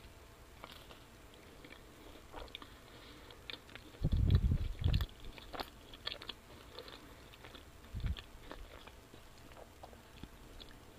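Close-up chewing of pizza, with mouth clicks and crackles scattered throughout. Low thumps around four and eight seconds in are the loudest sounds.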